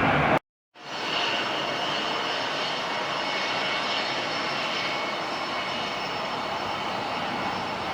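Jet airliner engines running steadily: an even rush of noise with a faint high whine on top, beginning after a short silent break near the start.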